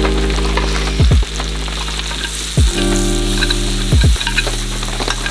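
Maitake and shimeji mushrooms sizzling in a stainless steel frying pan over a campfire, stirred and turned with metal tongs.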